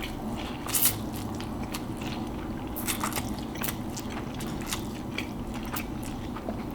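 Close-miked eating: chewing and slurping spaghetti coated in crushed Flaming Hot Cheetos, with irregular wet smacks and crunches and one loud smack about a second in.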